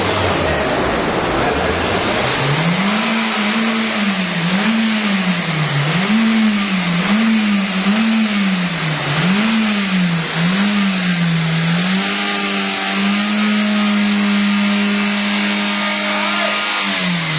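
2006 Toyota Corolla's four-cylinder engine being revved up and down over and over, about once a second, then held at a steady higher speed for several seconds before it drops back, over a loud steady hiss. The engine has a misfire (code P0300) that is being diagnosed.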